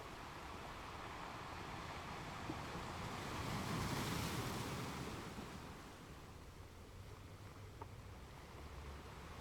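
Ocean waves on a beach: a wave swells and washes in, loudest about four seconds in, then fades back to a low, steady rush of surf.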